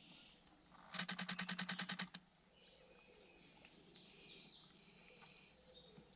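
Nikon Z6 II mirrorless camera firing a high-speed continuous burst, a rapid even run of shutter clicks, about a dozen a second, lasting just over a second, starting about a second in. Afterwards small birds chirp faintly.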